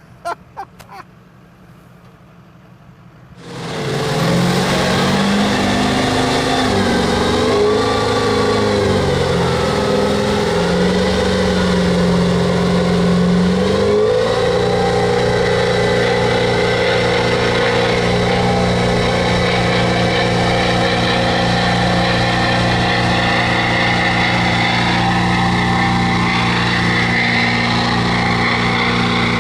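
Duramax diesel V8 of a lifted Chevrolet 2500 monster truck being driven. About three and a half seconds in, the engine comes in loud, rising and falling in pitch for about ten seconds, then holds a steady speed.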